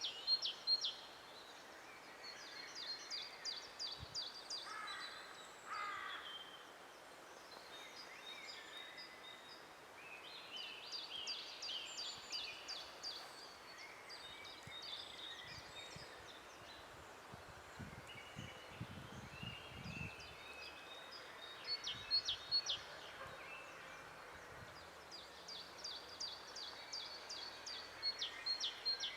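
Songbirds singing in woodland: a fast, rattling trilled phrase repeats every few seconds, with other softer bird calls between the phrases, over a faint steady background hiss.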